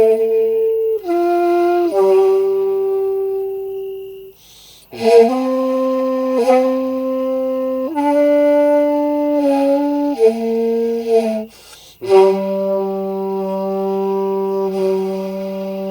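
Jinashi bamboo end-blown flute playing a slow melody of long held notes in three phrases with short breaks between them, some notes sliding down into the next pitch. It ends on a long held note.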